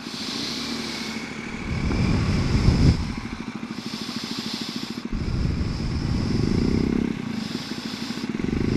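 BMW R1250 GS Adventure's boxer-twin engine running at low speed, its revs swelling and easing off a few times.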